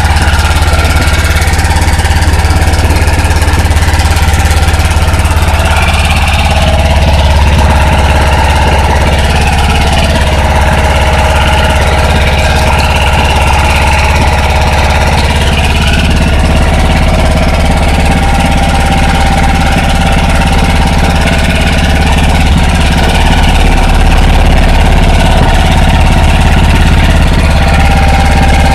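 Mitsubishi small engine of a Kawabe snowblower running steadily, its note shifting slightly a little past halfway.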